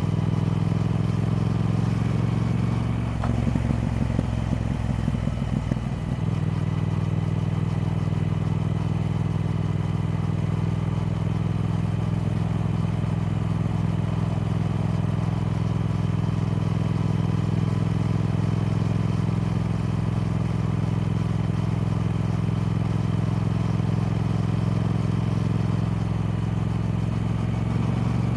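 Triumph Speed Twin's parallel-twin engine running at a steady, even note; a few seconds in, the note wavers and breaks up briefly before settling back to the same steady pitch.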